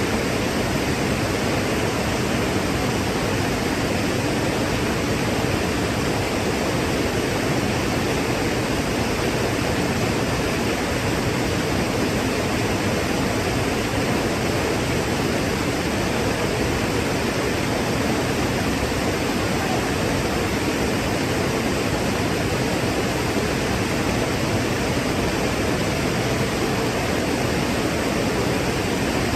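Waterfall: a steady, unbroken rush of falling water, full and deep.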